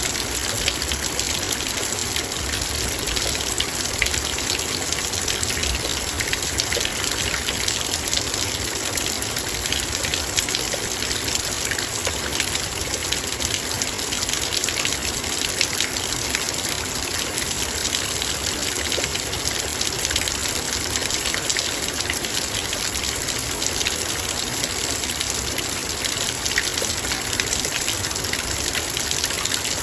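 Heavy rain falling steadily on a metal bowl: a dense, even hiss made of countless small drop impacts that does not let up.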